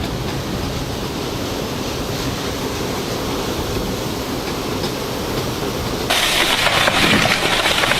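Gale-force wind rushing and buffeting the microphone, a steady roar of noise that turns suddenly louder and harsher about six seconds in.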